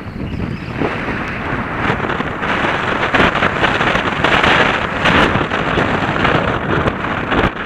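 Wind rushing over the microphone of a camera riding on a downhill mountain bike, growing louder over the first second, with frequent knocks and rattles from the bike over rough ground.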